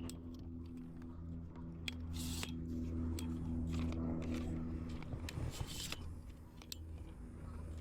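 Clicks, scrapes and rustling from fishing gear being handled, over a steady low hum that fades out about five seconds in.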